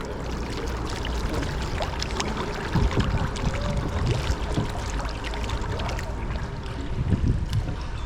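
Water splashing and trickling around a kayak as paddles dip and drip, with many small splashes and clicks over a low steady rumble.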